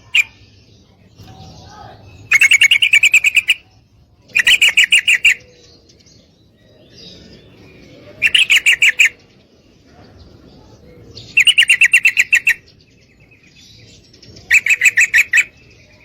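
Female yellow-vented bulbul (trucukan) calling: five loud bursts of rapid, rattling repeated notes, each about a second long and a few seconds apart. Faint chirping can be heard between the bursts.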